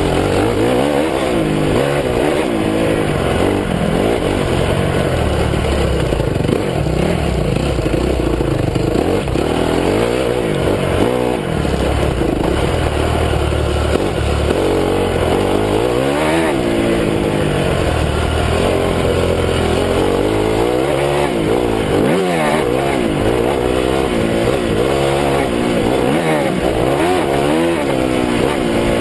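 Honda CRF250 dirt bike's four-stroke single-cylinder engine revving up and down over and over, the pitch climbing and dropping every second or few as the bike is ridden hard on a motocross track.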